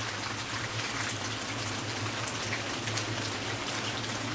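Heavy rain coming down steadily on the roof and deck, an even hiss of many drops, with a steady low hum underneath.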